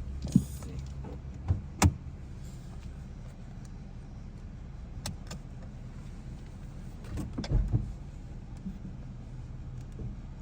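Car idling, heard from inside the cabin as a steady low hum, with a few sharp knocks and clicks about half a second and two seconds in and a cluster of thumps about seven seconds in.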